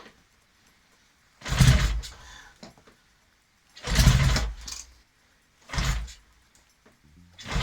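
1963 Norton SS 650 parallel-twin engine being kick-started: three short bursts about two seconds apart as the engine is kicked over, each dying away without catching.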